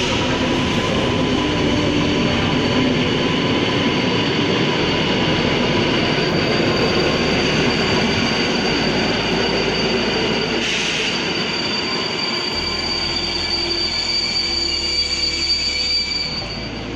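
Electric train moving along the station tracks, its wheels giving a steady high squeal over the rumble of the rails; the squeal grows stronger near the end, then the noise falls away as the train draws off.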